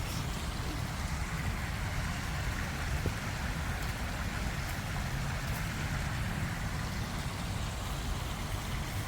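A stream's water rushing steadily, a continuous noise with a deep low rumble.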